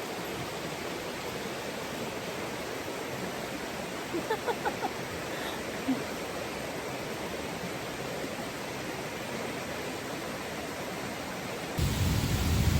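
Steady rush of river rapids. About four seconds in, a quick run of five short chirps, and near the end the rush becomes louder and deeper.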